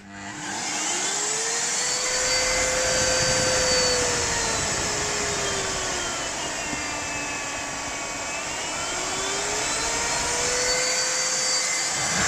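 Miele Complete C3 PowerLine 890 W cylinder vacuum cleaner switched on, its motor spinning up with a rising whine over the first couple of seconds and then running with a steady rushing hum. Its pitch sags through the middle and climbs back up near the end.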